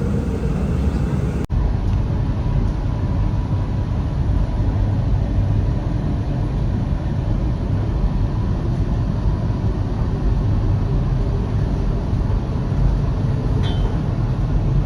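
Steady low rumble of a tram running, cut off briefly just after a second in.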